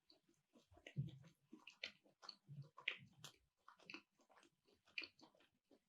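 A person chewing food close to the microphone: an irregular run of small wet clicks and soft crunches.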